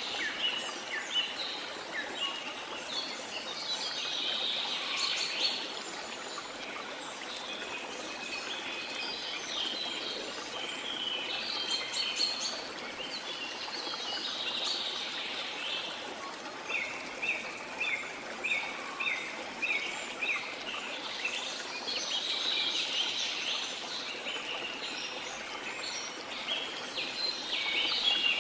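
Rainforest ambience: birds singing and chirping over a steady rush of falling water. Among the calls is a run of short repeated notes, about two a second, partway through.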